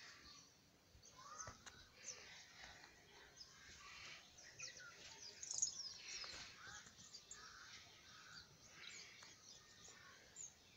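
Faint birds chirping: short, scattered calls over a quiet background hiss.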